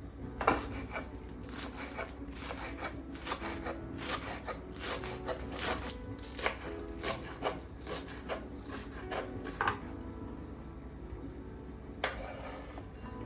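Kitchen knife chopping on a cutting board: quick, irregular strokes about two or three a second for around nine seconds, then a pause and one more stroke near the end.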